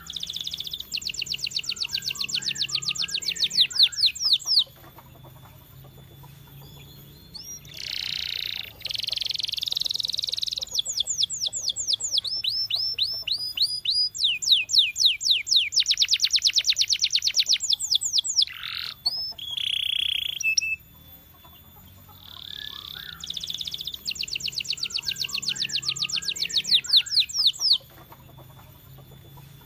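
A canary singing long trilled phrases of fast repeated high notes, broken by three short pauses.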